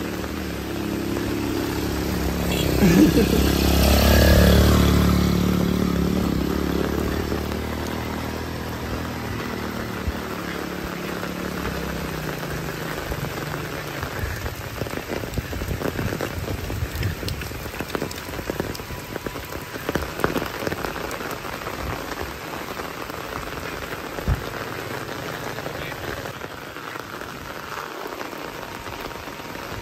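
Heavy rain falling steadily on a wet road, leaves and roofs, with scattered louder drips. An engine passes in the first part, loudest about three to four seconds in and fading out by about twelve seconds.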